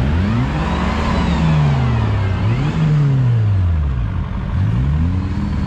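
Off-road vehicle's engine revving up and down, rising and falling in pitch about three times as it is driven hard.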